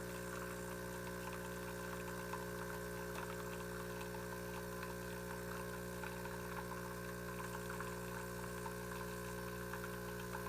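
De'Longhi ECP3630 espresso machine's pump running steadily, giving an even, unbroken hum.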